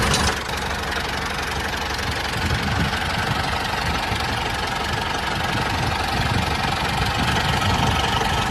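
Tractor engine running steadily with a low, even beat.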